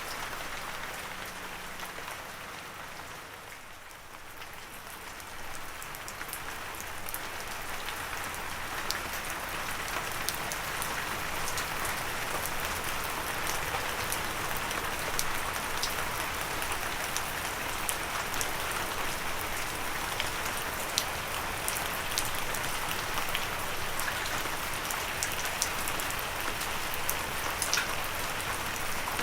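Gentle rain falling steadily, a dense patter with individual drops ticking sharply now and then. It eases a little about three to four seconds in, then comes back fuller and holds steady.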